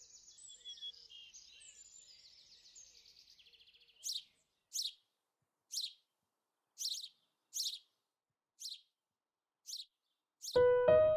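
Birds chirping: a faint high twittering at first, then a series of short, sharp downward-sweeping calls about once a second. Piano music comes in near the end.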